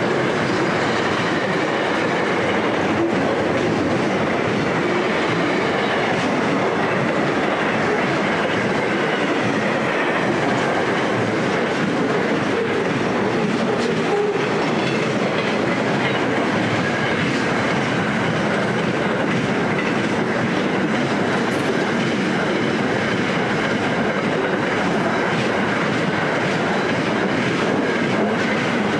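A long freight train's wagons rolling past at speed, the steady clatter of steel wheels on the rails, with a faint high wavering whine over it.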